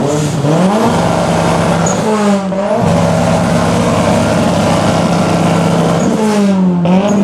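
A performance car's engine is revved up onto its two-step launch limiter and held at a steady high rev through a loud exhaust. It drops and comes back once about two and a half seconds in, and is let off and blipped again near the end.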